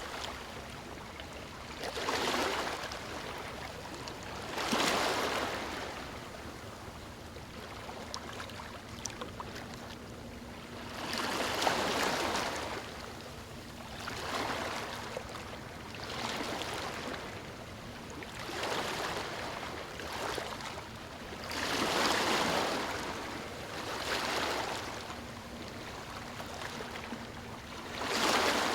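Rushing water noise that swells and fades every two to three seconds, over a faint steady hum.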